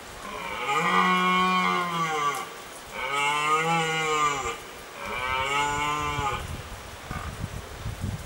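Three long, moo-like bellows from a large hoofed animal, each lasting a second and a half to two seconds and rising then falling in pitch, with short pauses between them.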